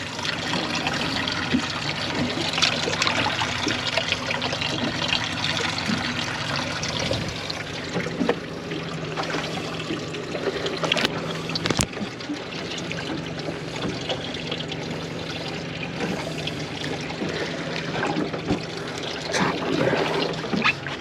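Water trickling and lapping around a small fishing boat, with a faint steady low hum underneath and a single sharp click about twelve seconds in.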